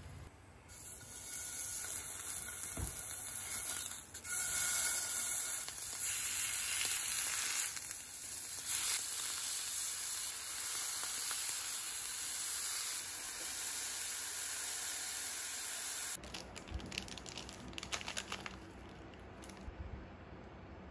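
Food sizzling as it fries in a pan: a steady hiss that starts about a second in and cuts off abruptly about three-quarters of the way through, followed by quieter light clicks and knocks.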